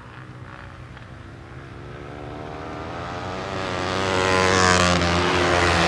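Flat track racing motorcycles' engines running hard, growing steadily louder from about two seconds in as the bikes come closer.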